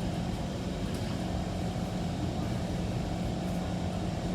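Kawasaki C151 MRT train heard from inside the car as it runs: a steady low rumble of wheels on rail under a constant motor hum, with a fainter higher tone joining about a second in.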